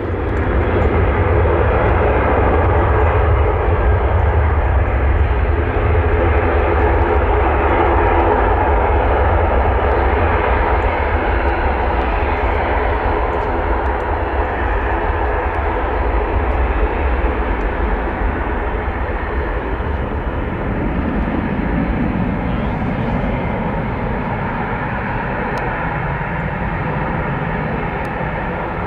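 Jet airliner engines passing close by: a loud, steady rush and deep rumble that swells suddenly at the start, then slowly fades.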